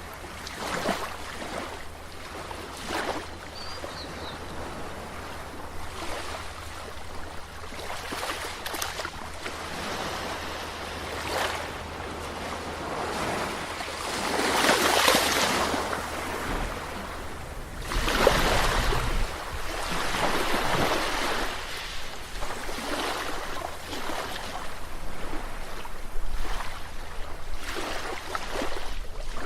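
Sea waves washing onto the shore, surging and falling back every few seconds, with the biggest surges about halfway through. A steady low rumble runs underneath.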